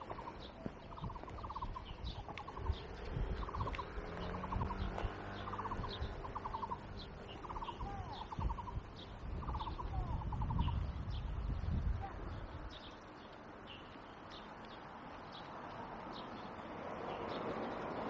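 A bird calling over and over, a short trilled burst about once a second for the first ten seconds, over a low rumble that dies away about twelve seconds in.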